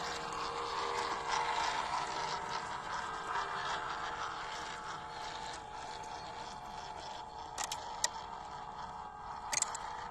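Electric drive motor and gears of a WPL 1/16-scale RC crawler truck whining steadily as it drives over rough ground, with scraping and crunching underneath and a few sharp clicks or knocks in the last few seconds.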